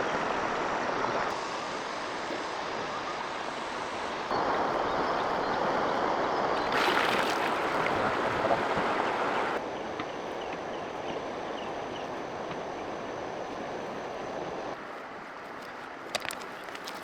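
Steady rush of flowing water, made of several joined stretches that change level abruptly, with faint bird chirps in the middle and a few sharp clicks near the end.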